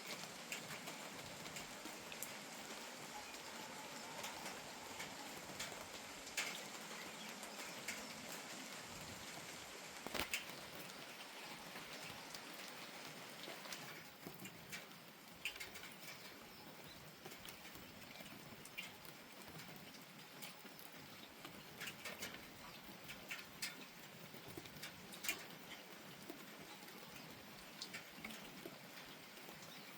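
Steady light rain falling, with scattered sharper drops striking close by. It eases slightly about halfway through.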